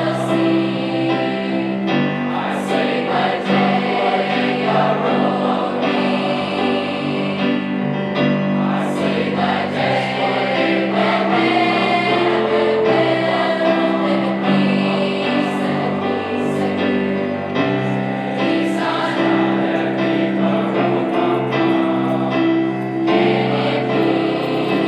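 A choir singing a song in parts, with sustained chords.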